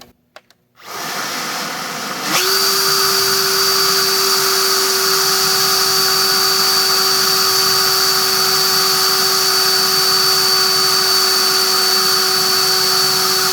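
EGO LB4800 battery leaf blower, fitted with a cheap replacement BLDC motor controller, starting up about a second in and jumping to a higher speed a second later with little soft start, then running steadily: a rush of air with a constant high motor whine.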